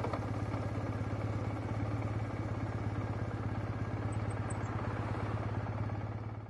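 Triumph Bonneville parallel-twin engine running steadily through a TOGA aftermarket silencer, a deep, even exhaust pulse with no change in pitch. The sound fades out at the very end.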